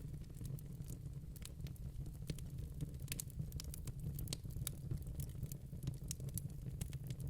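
Wood fire burning in a fireplace: sharp, irregular crackles and pops of burning logs, several a second, over a steady low rumble of the flames.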